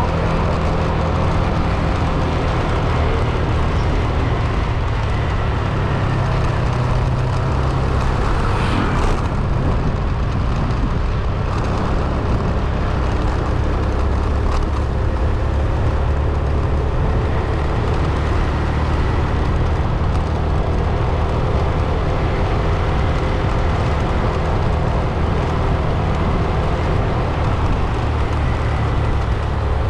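Car driving along at steady speed: a continuous engine hum with road and tyre noise, unchanging throughout.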